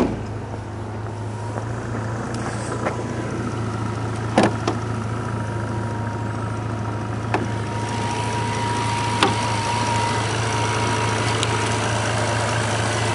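2006 Bentley Continental GT's 6.0-litre twin-turbo W12 engine idling steadily, with a few light clicks along the way. A thin whine comes in over the idle about two-thirds of the way through.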